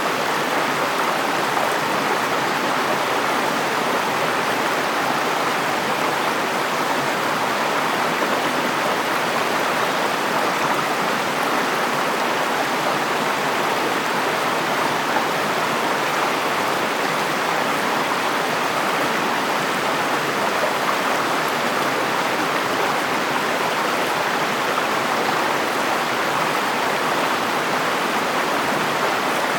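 River water flowing steadily over rocks, an even rushing sound with no breaks.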